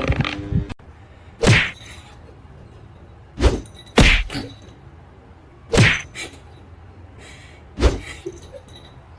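A series of five sharp thumps, spaced irregularly over a quiet background.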